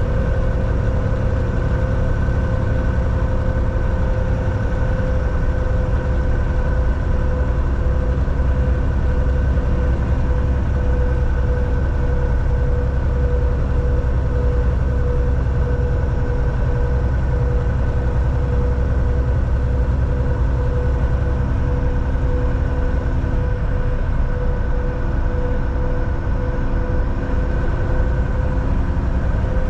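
Volvo VNL 760 semi truck cruising at steady speed, heard from inside the cab: a constant low diesel engine drone and road noise, with a steady hum over it.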